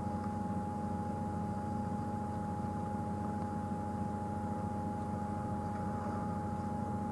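Game-drive vehicle's engine idling steadily, with a constant high-pitched tone over the low hum.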